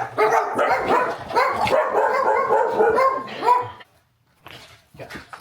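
Dog giving a rapid string of short, high yips and whines for nearly four seconds, then stopping.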